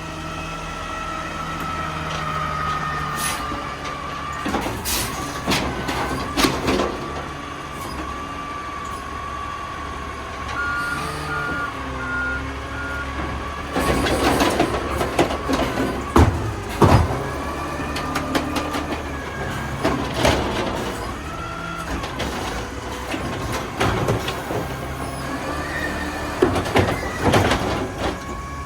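Garbage truck at work: engine running under a steady whine, with repeated bangs and clanks and a short run of reversing beeps about eleven seconds in.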